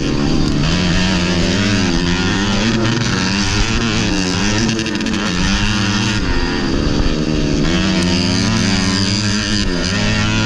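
Modified underbone (bebek) racing motorcycle engine at full race pace, its pitch rising and falling over and over as the throttle is opened and closed.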